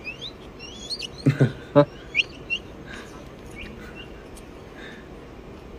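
Bird chirping in quick, short rising whistled notes. A few louder, short, low-pitched calls come in about a second and a half in.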